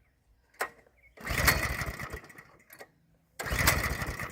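The Coleman CT200 mini bike's 196cc Honda-clone single-cylinder engine is cranked twice on its pull starter, each pull about a second long, and does not start. Someone takes the kill switch to be the cause.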